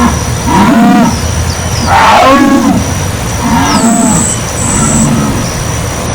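Jaguar giving a series of deep grunting calls, roughly one a second, each rising and falling in pitch.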